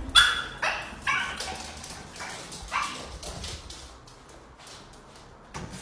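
A dog giving about five short barks in the first three seconds, each fainter than the one before.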